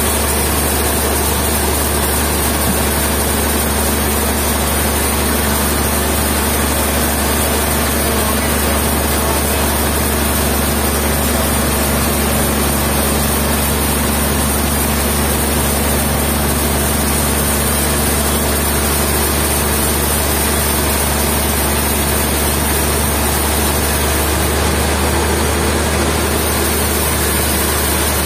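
Sawmill machinery running steadily: a heavy engine hum with a constant high whine, unchanging throughout.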